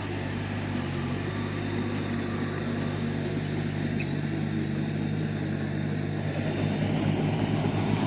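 Komatsu D31P bulldozer's diesel engine running steadily, getting a little louder near the end.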